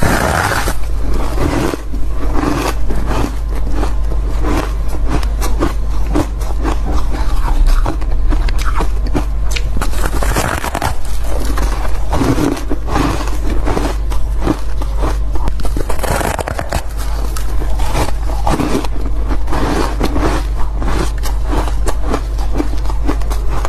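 A person biting and chewing squeaky, fluffy ice close to the microphone: a long run of irregular crunches and squeaks, one bite after another, over a steady low hum.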